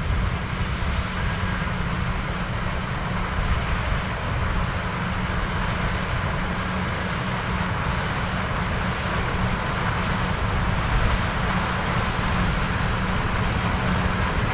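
Combine harvester running steadily while harvesting corn: a constant heavy engine and machinery drone.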